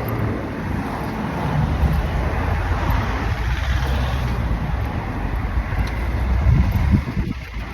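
Road traffic: cars driving past on the road, a continuous low rumble that swells as vehicles go by, loudest about two seconds in and again just before the end, where it drops away sharply.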